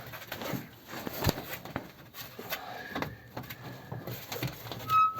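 A rubber floor mat in a 1941 Ford pickup cab being hooked out from under the front pedal, giving scraping, rustling and small knocks. Near the end comes a short, high-pitched squeal.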